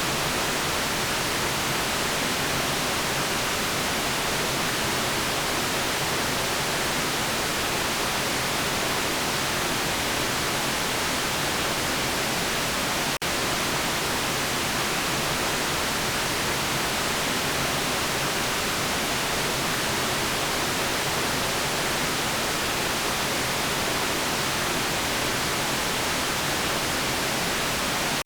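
Steady, even hiss of electronically generated white noise, bright and weighted toward the high frequencies, with one momentary dip in level about 13 seconds in.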